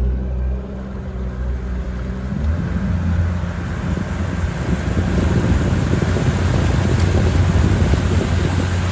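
Outboard motor of a fishing boat running, then growing louder from about two seconds in as the boat gets under way, with a rising rush of wind and water.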